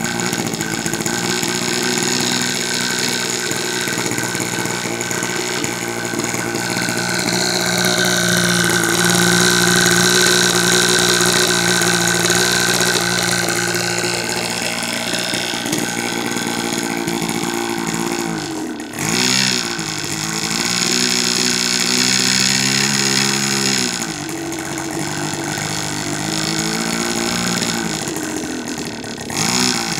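O.S. Max LA25 two-stroke glow engine on a model airplane running at high speed with a steady buzz. Its pitch briefly drops and climbs back twice, about two-thirds of the way in and again near the end.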